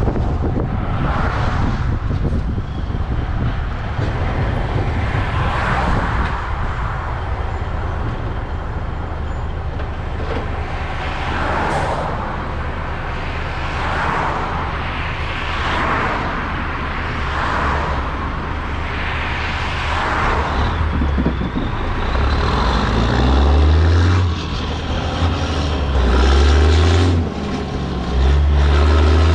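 Semi truck's diesel engine under way, with a rushing wind-and-road noise that swells and fades about every two seconds. In the last several seconds the engine revs up and falls back again and again with brief dips, the truck working up through its gears.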